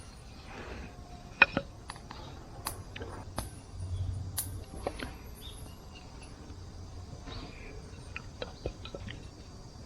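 Scattered sharp clicks and light knocks, irregular, with one loud sharp click about a second and a half in and a dull low thud around four seconds in.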